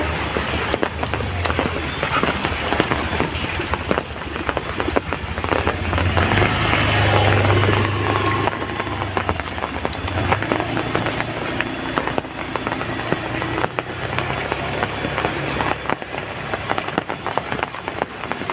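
Heavy rain falling steadily, with many sharp drop impacts crackling through it. A low rumble swells and fades about six to ten seconds in.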